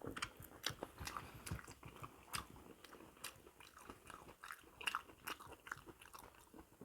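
Close-up eating sounds: a person chewing and biting buffalo feet, with irregular small crunches and wet mouth clicks.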